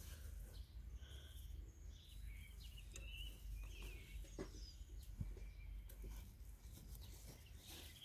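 Small birds chirping on and off over a low steady rumble, with a few faint clicks, likely from hands pulling wet grass clippings out of a plastic lawnmower deck.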